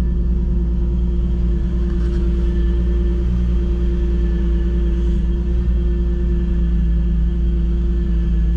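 A Vortech-supercharged Infiniti G35's V6 idles steadily through Megan Racing headers, Motordyne ART pipes and a TDX2 exhaust, giving an even, low exhaust note with no revving.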